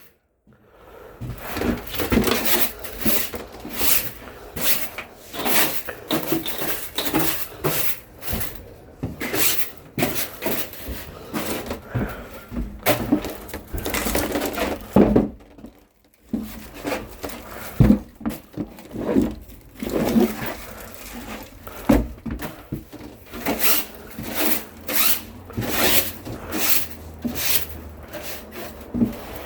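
Irregular knocks and clatter of objects being handled, many short sharp impacts at uneven intervals, with a brief pause about halfway through.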